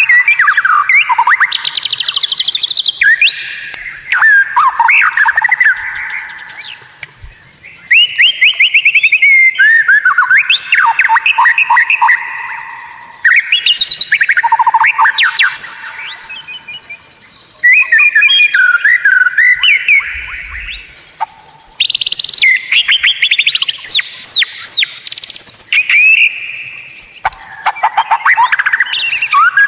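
White-rumped shama (murai batu) singing loudly: a string of varied phrases of rapid trills, chattering notes and sweeping whistles, each a few seconds long, with short pauses between them.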